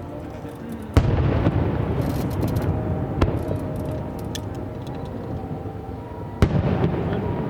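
Aerial fireworks bursting: a loud bang about a second in and another near the end, each followed by a rumbling echo, with scattered crackling pops between them.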